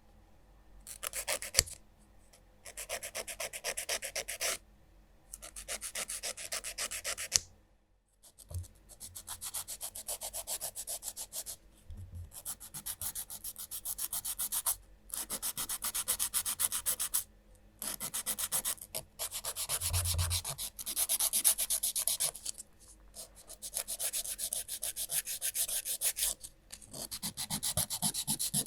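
Nail file worked rapidly back and forth across fingernails, in runs of quick scratchy strokes broken by short pauses, with a sharp click or two.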